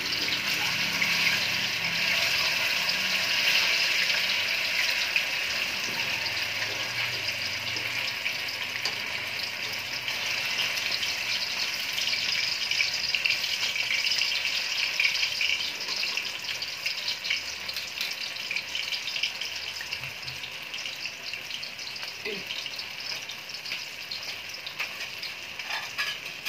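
Tofu cubes coated in flour and cornstarch frying in shallow oil in a steel wok: a steady, crackling sizzle.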